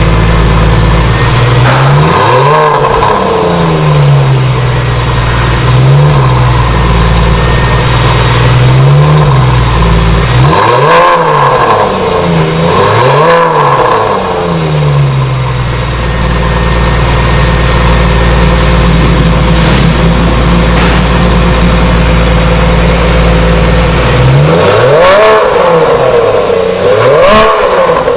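Porsche 911 Carrera 996's flat-six engine breathing through a full aftermarket exhaust system, idling with repeated sharp throttle blips that rise and fall in pitch: a cluster of revs in the first half, a long stretch of steady idle, then two more blips near the end.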